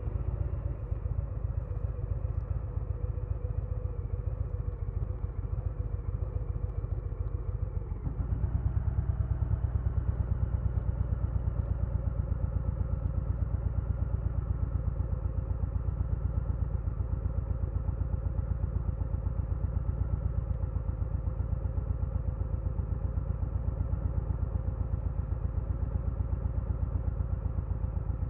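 2022 Harley-Davidson Low Rider S's Milwaukee-Eight 117 V-twin running steadily. About eight seconds in it gets louder and then holds there.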